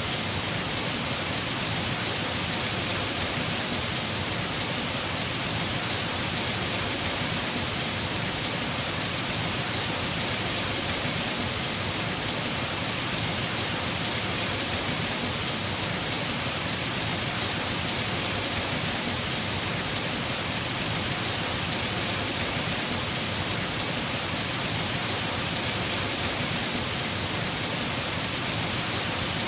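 Heavy rain falling on a house roof, a steady, even hiss with no let-up.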